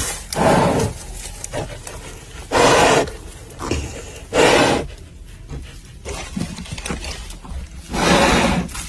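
A large animal roaring or snarling four times, each loud call about half a second long with quieter gaps between.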